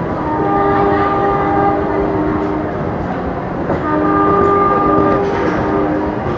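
Train locomotive's air horn sounding two long chord blasts, each about two and a half seconds, a second apart, over the steady rumble of the train.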